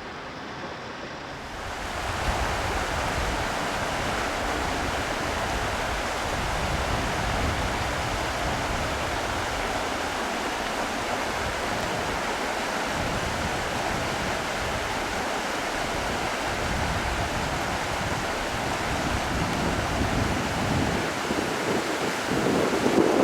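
A mountain river rushing over rocks, a steady noise of flowing water that comes up about a second and a half in. Wind on the microphone adds a low rumble.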